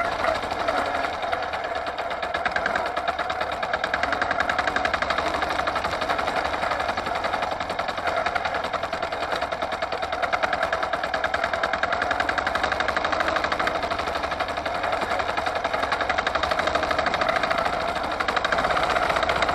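Forte 135E walk-behind tractor engine running while the machine is driven along, a steady rapid pulsing from its firing strokes.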